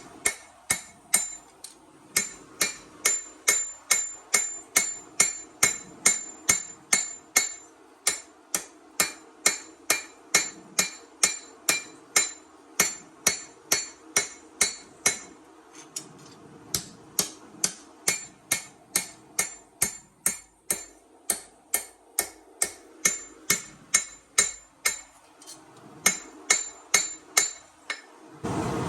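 Hand hammer striking steel on an anvil while forging a chef knife blade, about two blows a second with a ringing tone, in runs broken by short pauses. A steady rushing noise starts just at the end.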